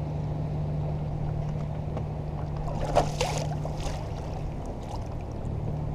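Steady low engine hum with a brief splashy noise about three seconds in.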